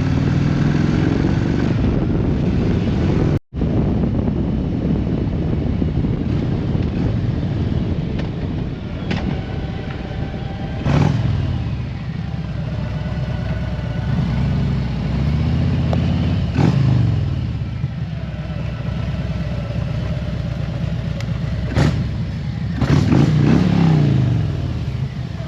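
Harley-Davidson Road Glide Limited's V-twin running under way, with wind rush. The engine pitch rises and falls a few times as it revs up and shifts. There is a brief cut-out about three and a half seconds in.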